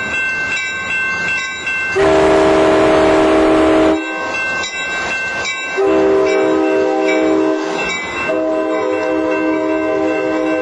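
Locomotive horn sounding repeated long blasts of several tones at once, each about two seconds, with short gaps between. The last blast starts about eight seconds in and holds on.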